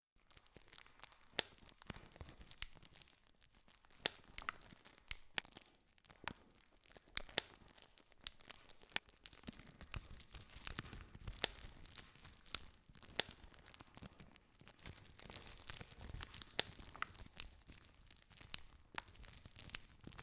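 Campfire burning, wood crackling with frequent sharp pops and snaps over a soft, steady rustle of flames.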